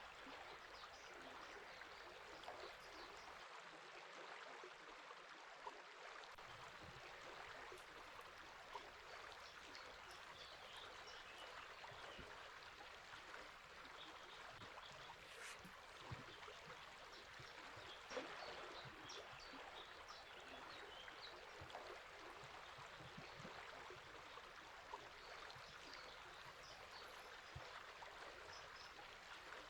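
Faint, steady rush of a flowing river, with scattered brief bird chirps here and there.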